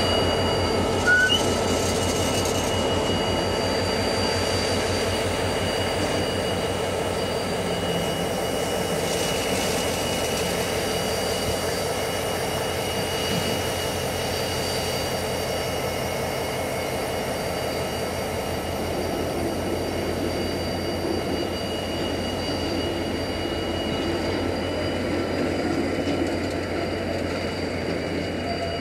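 Freight train of empty timber wagons, hauled by an Irish Rail class 071 diesel locomotive, rolling past: a steady rumble and rhythmic clatter of wagon wheels on the rails. Over it runs a high, steady wheel squeal that weakens near the end.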